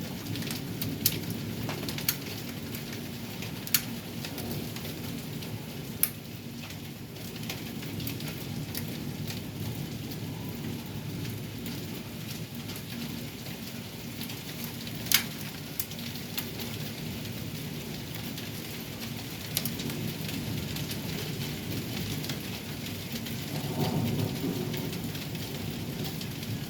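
Heavy thunderstorm rain falling steadily, with a few sharp ticks of drops or hailstones striking close by. A low rumble of thunder swells about three-quarters of the way through.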